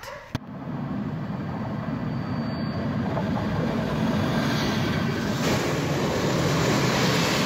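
A short click, then a train pulling into the station: the steady running noise of the locomotive and wagons on the rails grows louder as it comes nearer.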